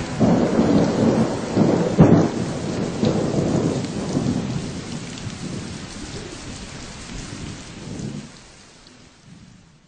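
Thunderstorm recording: steady rain with rumbling thunder and a sharp thunderclap about two seconds in, the whole fading out to nothing near the end.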